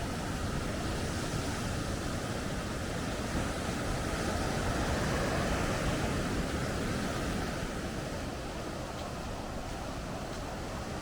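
Rough surf breaking on a sandy beach in strong wind: a steady rush of waves that swells in the middle and eases off a little after.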